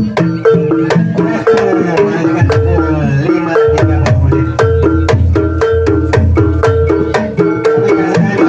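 Javanese ebeg (jaranan) accompaniment music: mallet-struck keyed percussion repeating a short two-note figure in a steady rhythm over hand-drum strokes.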